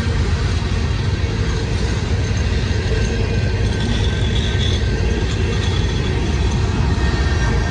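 Diesel-electric locomotives of a freight train working hard up a grade: a loud, steady, deep rumble.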